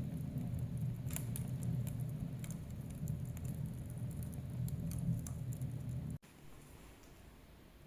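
Wood fire in a fireplace crackling, with scattered sharp pops over a steady low rumble of flames. About six seconds in the sound cuts off abruptly, leaving only a faint hiss.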